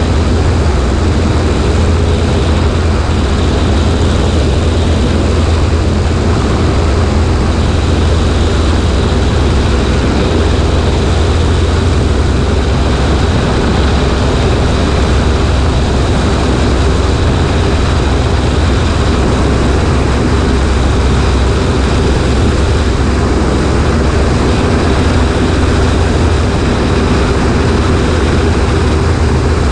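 Cessna 140A's four-cylinder engine and propeller running at a steady, unchanging drone, heard from a wing-mounted camera with wind rushing over the microphone.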